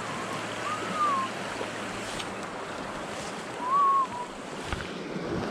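Creek water rushing steadily, with two short whistle-like notes rising and falling, about a second in and again about four seconds in.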